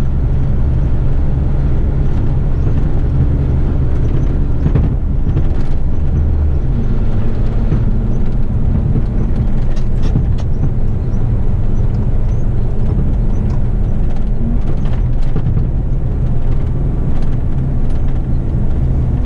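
Eight-wheeler twin-steer waste truck's diesel engine running steadily under way, a continuous low drone with road noise, heard from inside the cab. A few light clicks come through over it.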